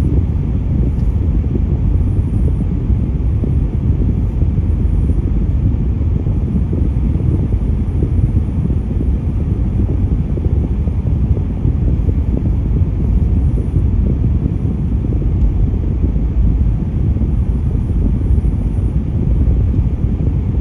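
Steady low rumble of road vehicles in traffic, with no distinct events.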